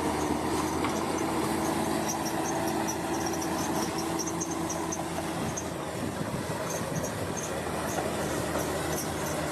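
Heavy earthmoving machine's engine running steadily, a continuous low mechanical drone, with short high chirps scattered through it.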